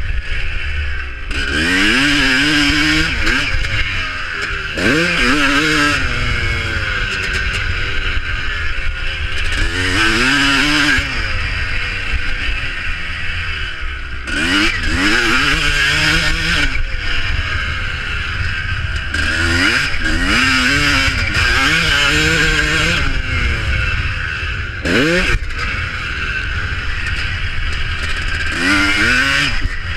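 Motocross bikes racing, their engines revving up and dropping back again and again, several at once, as they pass.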